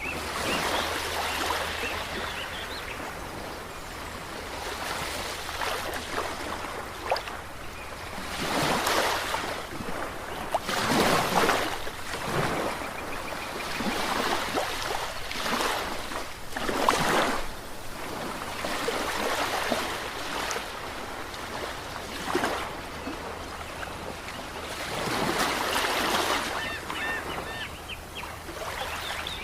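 Ocean waves breaking and washing in, the surf swelling and falling away in repeated surges every few seconds.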